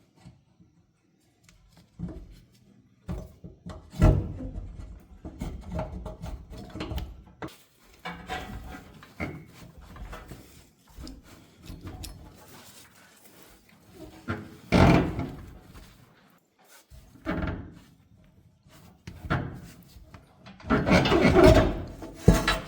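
Irregular knocks, clunks and scraping of hard objects being handled and moved, with the loudest bursts about 15 seconds in and near the end.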